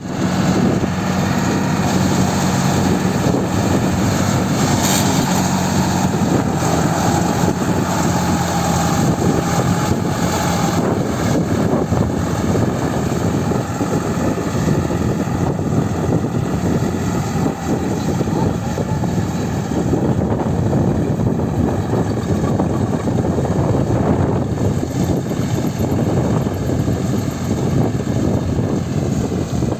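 Deutz-Fahr Agrolux 50 4WD tractor's diesel engine running steadily, with a constant drone.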